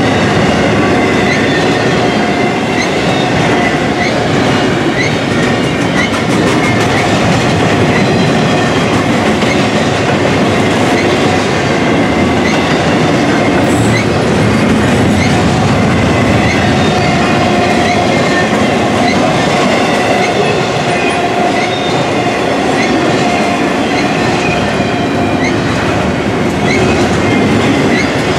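Double-stack intermodal container cars of a freight train rolling past, a loud, steady rumble and clatter of steel wheels on the rails with a thin wheel squeal running through it.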